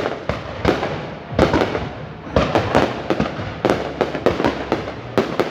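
Aerial fireworks display: shells bursting in a rapid, uneven string of bangs, several a second, with crackling between them.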